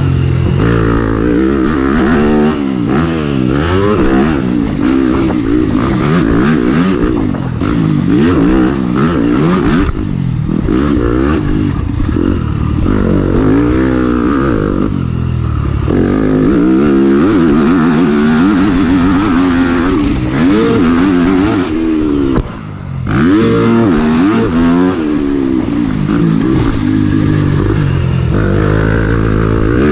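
Motocross bike's engine being ridden hard, its pitch rising and falling again and again as the rider works the throttle and shifts gears. About two-thirds of the way through, the throttle is chopped and the engine goes briefly quieter, then picks up again.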